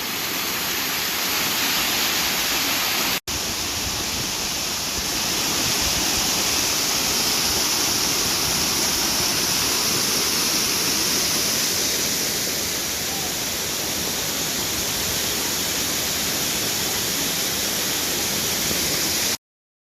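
Waterfall of about 20 to 25 feet heard up close: a loud, steady rush of falling water. It cuts out for an instant about three seconds in, then stops abruptly near the end.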